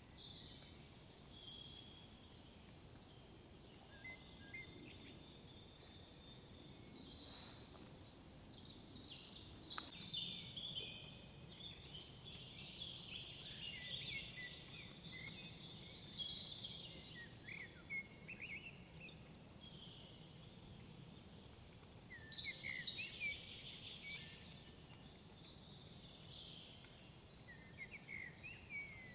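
Several songbirds singing in a forest: overlapping chirps, whistled phrases and short high trills that come and go throughout, over a faint low background hum.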